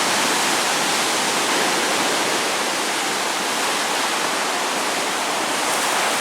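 Steady rush of turbulent river water as a tidal bore surges up the river, an even noise with no breaks.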